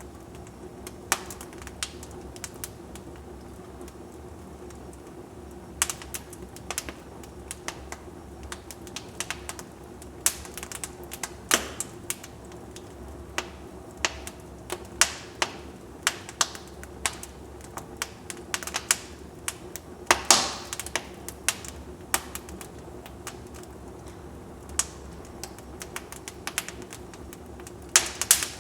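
Wood fire in a fireplace crackling: irregular sharp pops and snaps, sometimes several in quick succession, over a low steady background. The loudest snap comes about two-thirds of the way in.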